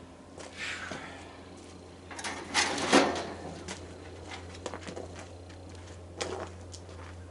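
Scrap parts of a tanning bed being handled and moved: scattered clicks and knocks, a louder rattling scrape about three seconds in, and a shorter one near six seconds, over a steady low hum.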